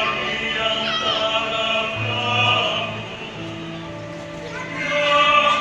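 A choir singing in harmony: several voice parts hold long sustained notes over low held bass notes, swelling loudest near the end.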